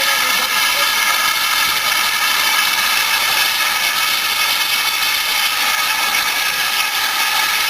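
Steam locomotive venting steam: a steady, loud, high-pitched hiss that holds unchanged throughout.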